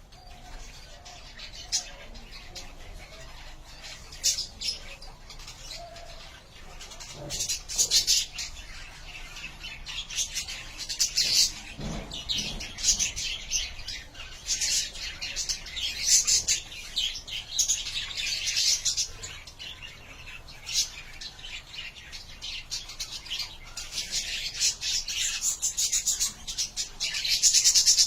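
Budgerigars chattering and chirping in quick, overlapping bursts. The chatter gets busier and louder partway through and is densest near the end.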